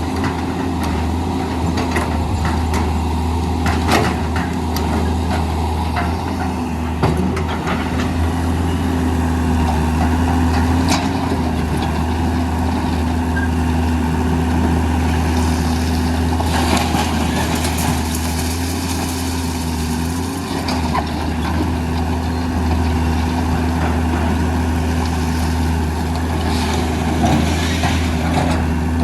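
Diesel engines of a Hitachi EX200 excavator and Isuzu Elf dump trucks running steadily at a working pitch, with occasional short knocks.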